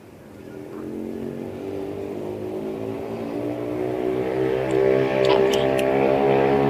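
Domestic cat purring close to the microphone: a steady, low, rumbling purr that swells and grows louder, with a few light clicks about five seconds in.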